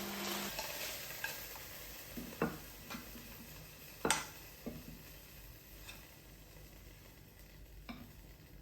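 Kitchen utensils clinking and knocking against a pan or dish, several scattered taps with the loudest about four seconds in, over a faint frying sizzle that dies away. A steady appliance hum cuts off about half a second in.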